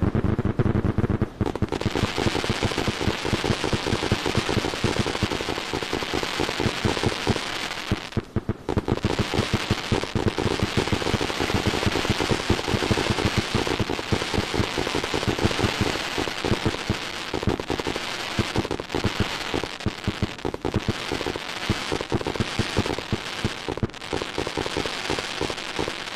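Fireworks crackling in a dense, rapid stream of small pops and bangs, with a short lull about eight seconds in.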